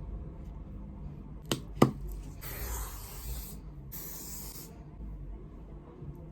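Two sharp clicks, then two sprays from a spray nozzle: one of about a second, then a shorter one of about half a second.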